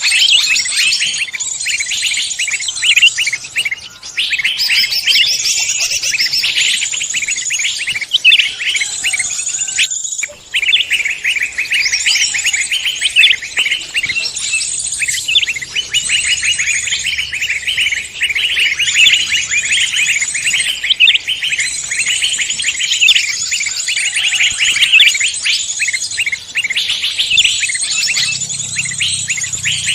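Many songbirds singing at once in a dense, continuous chorus of rapid high chirps and trills overlapping one another.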